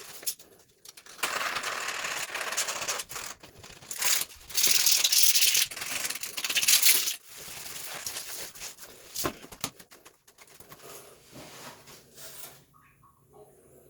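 Handling noises from repair work: several rough scraping or rustling bursts, each lasting about a second or longer, mixed with scattered clicks and light knocks. These give way to fainter ticks in the second half.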